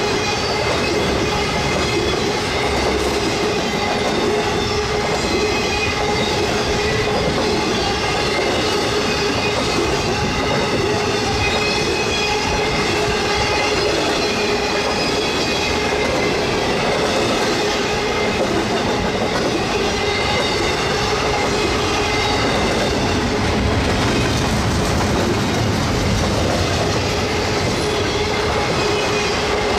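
Freight cars rolling steadily past close by: a loud, continuous rumble of steel wheels on rail, with a steady high squeal from the wheels riding over it.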